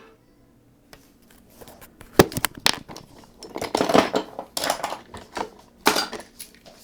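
Wooden toy engines and wooden track clattering, a run of irregular hard clacks and knocks, the sharpest about two seconds in and the busiest around four and six seconds.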